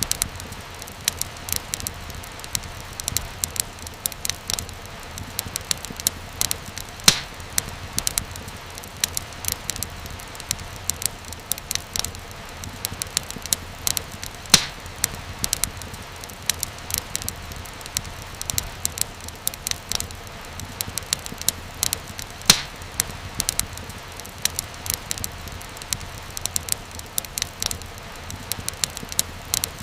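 Wood fire crackling steadily, with many irregular snaps and a few louder pops over a soft low rumble and hiss.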